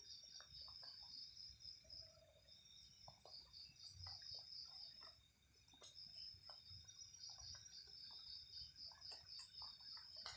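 Faint night insects calling in a high, fast-pulsing trill that breaks off for about a second midway, with scattered soft ticks and clicks.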